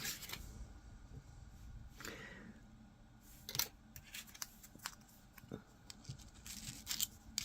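Small 3D-printed plastic parts being handled: faint scattered clicks and taps with brief rustling, a short swish about two seconds in and a cluster of sharper clicks near the end.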